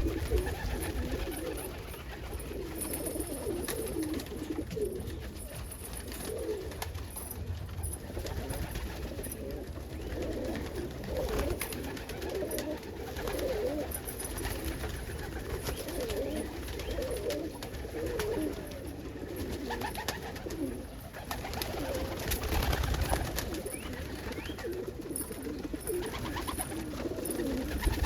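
Many domestic pigeons cooing continuously in their loft, their low wavering coos overlapping without a break.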